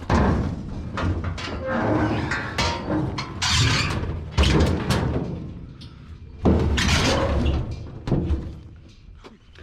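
Junk being handled and dropped in a rubbish pile: heavy thuds and clattering knocks, with four loudest hits, the first at the very start and the others about four and a half, six and a half and eight seconds in.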